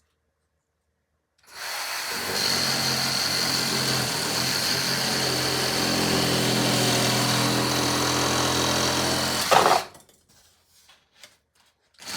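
Reciprocating saw with a long blade cutting into foam. It starts about a second and a half in, runs steadily for about eight seconds with a high whine over the motor noise, gives a brief louder burst just before it stops, and is followed by a few faint knocks.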